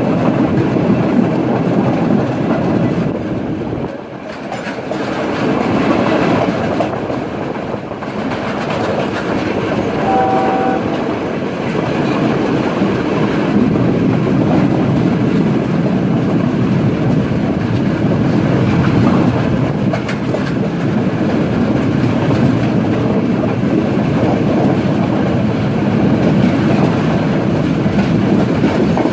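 Udaya Devi express train running along the rails, a steady rumble and rattle of the wheels and carriages. A short horn blast sounds about ten seconds in.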